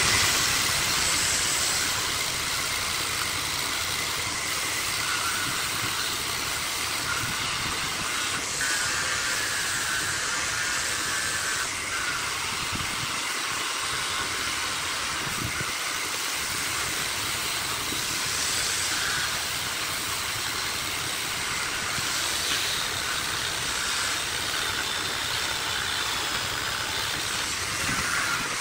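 Wood lathe running with a tool held against the spinning wood, giving a steady loud hiss with a faint whine in it.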